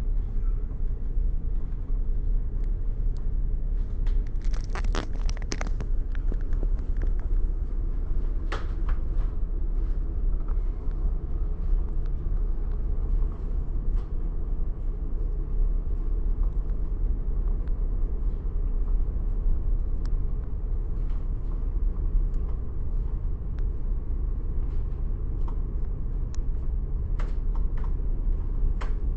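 Steady low rumble of a bus under way, heard from inside, with scattered sharp clicks and rattles, a cluster of them about four to six seconds in.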